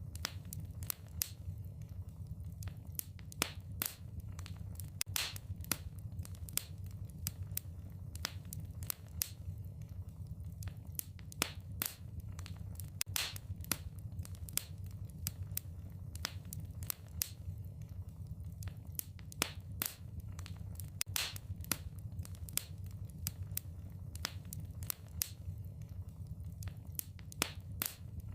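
Wood fire crackling in a fireplace: irregular sharp snaps and pops, several a second and uneven in loudness, over a steady low rumble.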